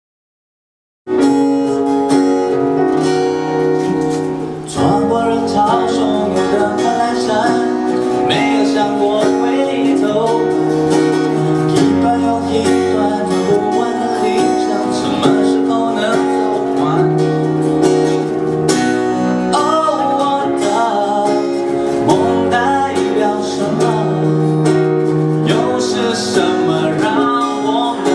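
Live acoustic guitar playing with a sung vocal line, starting about a second in.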